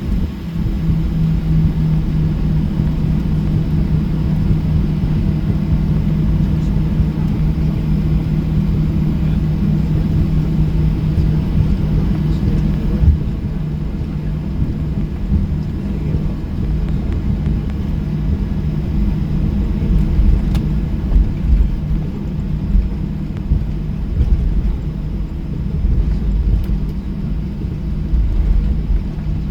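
Steady low rumble and hum in the cabin of a Boeing 737-800, its CFM56 engines running at low power. The hum eases slightly about halfway through.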